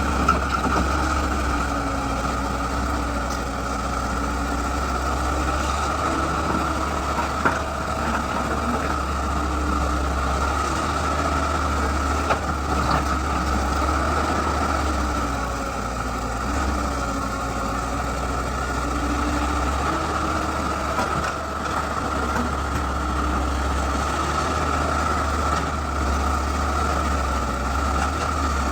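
Excavator's diesel engine running steadily, its note rising and falling slightly as it works, with a couple of sharp knocks.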